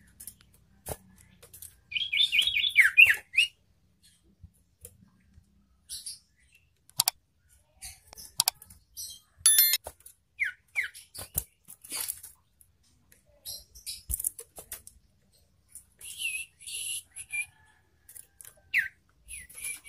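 Common iora calling: a quick run of chirps about two seconds in, then a few short falling whistles spread through the rest, with a brief rattle near the middle. Sharp clicks are scattered among the calls.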